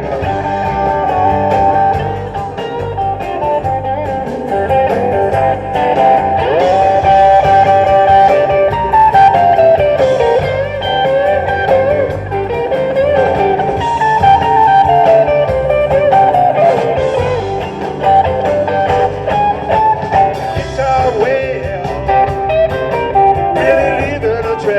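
Live rock and roll band playing an instrumental break: a lead guitar solo with bent, sliding notes over bass and a steady beat.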